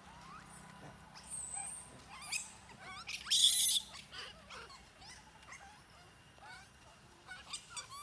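Animal calls: many short, rising chirps throughout, and one loud, harsh squeal about three and a half seconds in.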